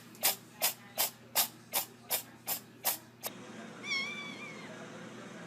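Quick, even hissing swishes, about three a second, stop abruptly; about a second later a cat meows once.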